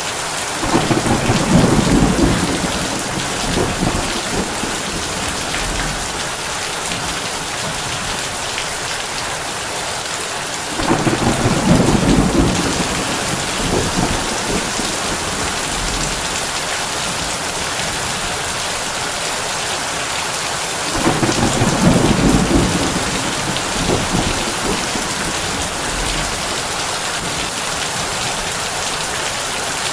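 Heavy rain pattering steadily on a tin roof, with three low thunder rumbles of about two seconds each, coming about ten seconds apart: near the start, around the middle and about two-thirds of the way through.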